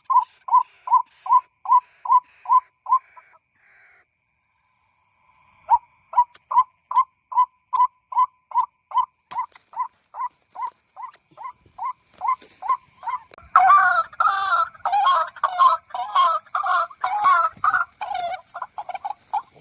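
White-breasted waterhen calls repeated at about two a second, played as a lure from an MP3 player. The calling stops for about two seconds near the fourth second, then starts again. From about two-thirds of the way through, a louder, fuller run of waterhen calls takes over.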